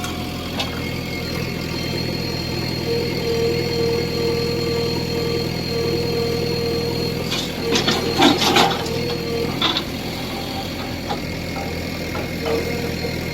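Diesel engine of a JCB 3DX backhoe loader running steadily, with a whine that comes and goes. A short cluster of clanks and knocks comes around eight seconds in.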